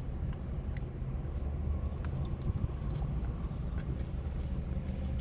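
Small clicks and taps of eating, such as a utensil against a takeout container, over a steady low rumble.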